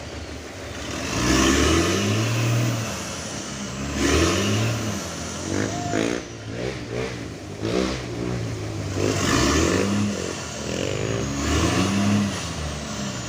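Truck engine revving up and dropping back several times in a row, its pitch climbing and falling again every two to three seconds.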